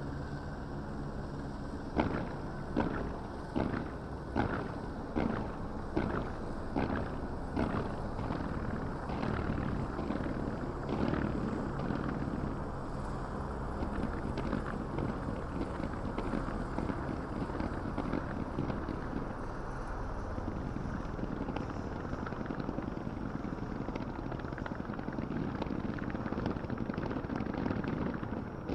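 Fireworks going off: after a steady low hum, a regular run of sharp bangs a little under a second apart begins about two seconds in, then gives way to a dense, continuous crackle and rumble of many bursts.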